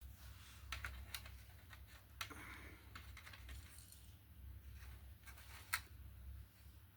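Scattered sharp clicks and light taps, a handful of them, the loudest near the end, over a steady low hum.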